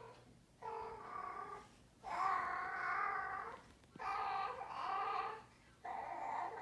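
A baby babbling and fussing: four drawn-out, wavering vocal sounds with short breaks between them.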